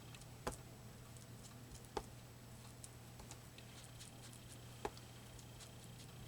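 Quiet tabletop craft handling: faint scattered ticks and taps, with three sharper taps spread through, over a steady low hum.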